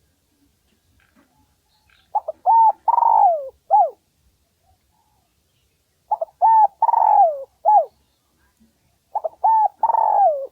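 Spotted dove cooing its territorial song: three phrases about four seconds apart, each two short coos, a long falling coo and a short falling final coo. It is a lure call meant to draw rival males in to fight.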